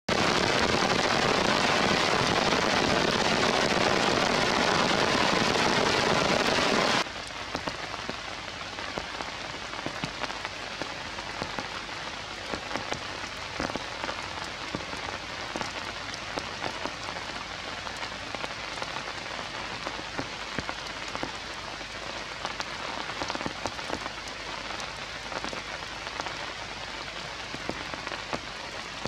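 Heavy rain falling on forest foliage in a steady loud hiss. About seven seconds in it drops suddenly to lighter rain, with many separate drops heard striking leaves.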